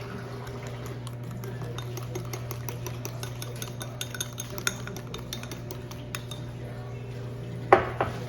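A spoon stirring and clinking in a bowl, with many small clicks of kitchenware and one louder knock near the end, over a steady low hum.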